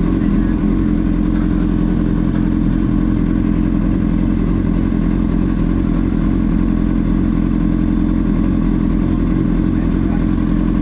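Car engine running steadily at an even, low pitch, with no revving.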